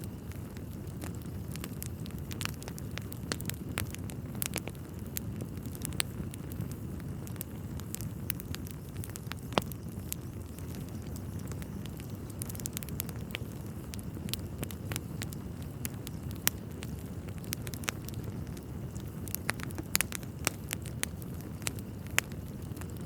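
Wood fire burning in a fireplace: a steady low rumble of flames with frequent irregular crackles and occasional sharper pops.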